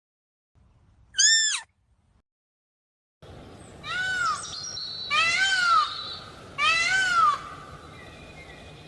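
Duck calling: four clear calls that each rise and fall in pitch, the first about a second in, then three in a row over a steady background hiss.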